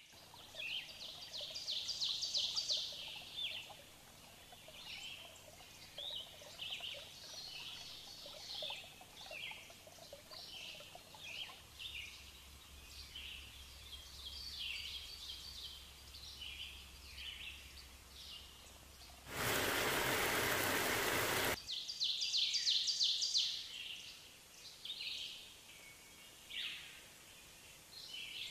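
Small birds chirping and trilling over and over. Around two-thirds of the way through, a loud steady hiss lasts about two seconds and then cuts off.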